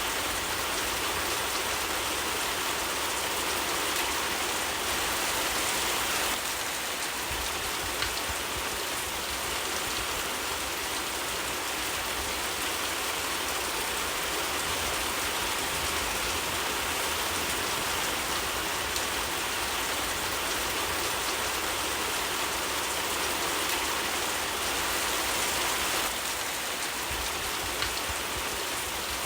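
Steady rain falling, an even continuous hiss, with a few isolated sharp ticks here and there.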